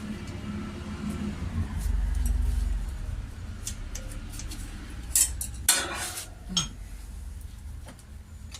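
Steel spanner clinking and scraping against the tappets and engine casting of a side-valve engine while being worked onto a tappet nut, with a few sharp metallic clicks about five to six seconds in, over a low rumble.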